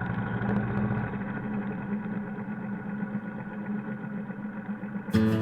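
Royal Enfield Bullet Electra's single-cylinder engine running steadily while the motorcycle cruises on an open road. Guitar music cuts in abruptly just before the end.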